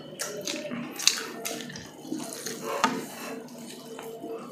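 Close-miked wet chewing, lip-smacking and sucking of people eating grilled chicken inasal with their hands, with irregular sharp clicks of mouth and teeth. A faint steady hum runs underneath.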